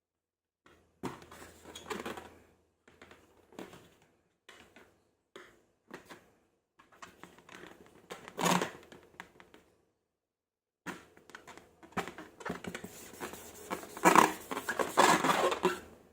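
Close-miked handling sounds of slime-making: crackling, crinkling and squishing in irregular bursts, with a pause of about a second in the middle and the busiest, loudest stretch near the end.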